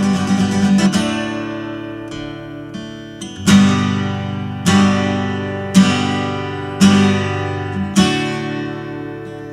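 Acoustic guitar in an instrumental break between verses of a country-folk song: steady strumming, then single chords struck about once a second and left to ring out.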